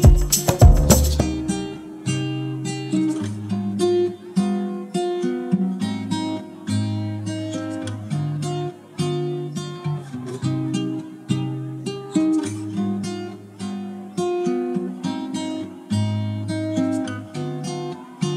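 Background music: acoustic guitar picking a calm melody over a bass line. Loud percussion stops about a second in.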